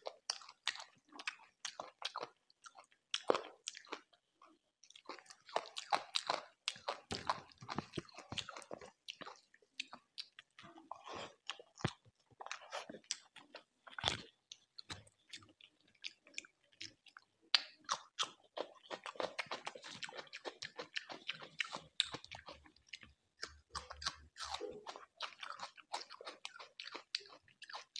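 Close-miked chewing of chicken and rice, a dense run of quick mouth clicks and smacks with short pauses.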